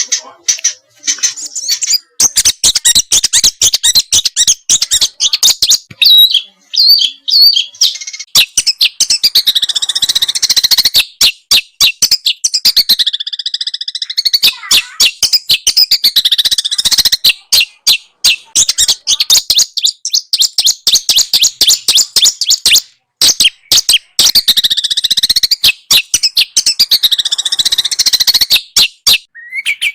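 Small songbird singing a harsh, rapid song: dense runs of quick chips and trills, with only a few brief pauses.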